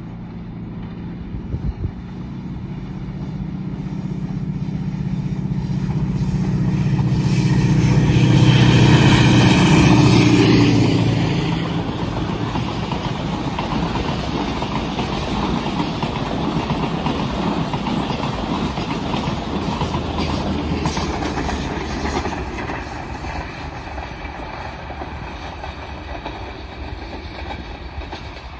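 Pakistan Railways ZCU-20 diesel-electric locomotive hauling a passenger express past. The engine's drone grows louder and peaks about nine to eleven seconds in as the locomotive passes, then the steady rumble of the coaches' wheels on the rails carries on and eases off near the end.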